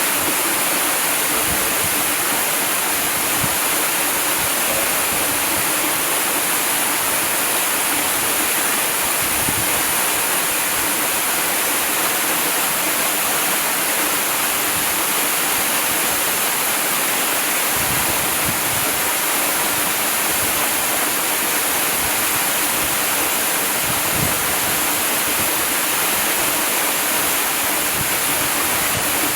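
Waterfall: a steady, unbroken rush of falling water, with a bright hiss in the upper range.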